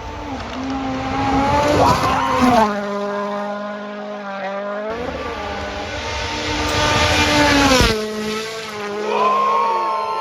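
Vehicle engine revving during drifting, its note holding, dropping and climbing again, with two long stretches of tyre-squeal hiss, one at the start and one in the second half.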